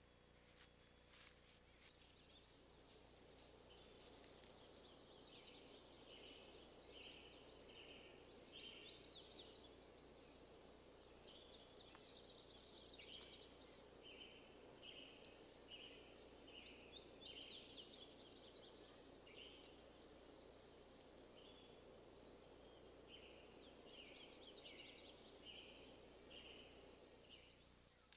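Faint outdoor ambience with a bird singing: groups of short, high chirps and quick trills, repeated over and over.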